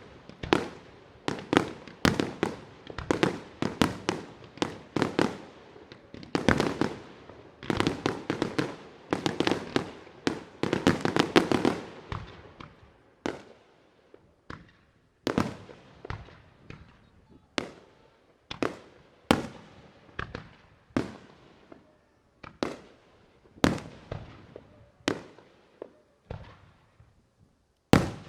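Aerial fireworks shells bursting: a dense, rapid barrage for about the first twelve seconds, then thinning to single bangs roughly once a second, each with an echoing tail.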